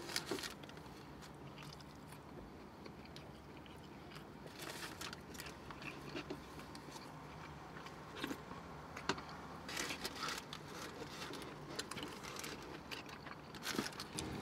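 Faint close-up chewing of a sub sandwich, with scattered small wet mouth clicks and crackles.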